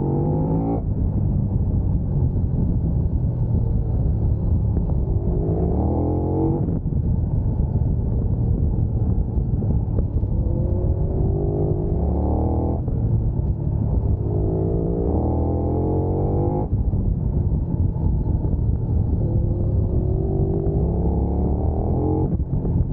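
Big sport motorcycle engine at speed, revs climbing in long pulls, each one ending in an abrupt drop in pitch, about five times over the stretch, under a steady low rumble.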